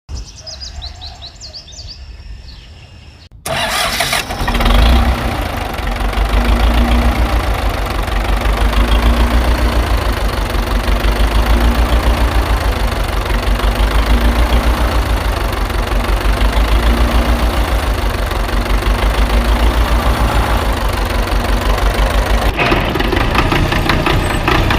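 An engine starts about three and a half seconds in and runs with a steady, rhythmic low chugging like a tractor engine idling. Its sound changes abruptly near the end.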